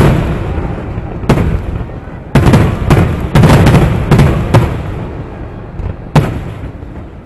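Aerial fireworks shells bursting: a sharp bang about a second in, a quick cluster of several bangs from about two and a half to four and a half seconds, and one more about six seconds in, each trailing off in a rolling rumble.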